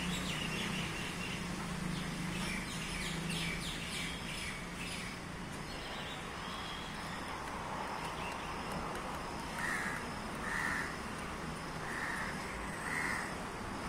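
Birds calling: a run of quick chirps a few seconds in, then four short calls about a second apart near the end.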